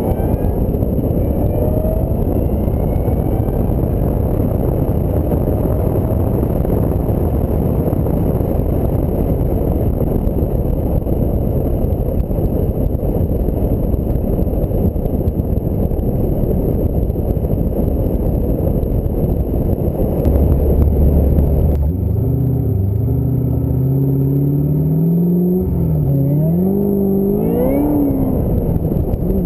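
Ford Mustang SVT Cobra V8 on the road, with heavy wind rushing over the microphone and road noise for most of the stretch. About three quarters of the way through the rush drops back and the engine note comes through, rising in pitch as the car accelerates, falling at a gear change and climbing again.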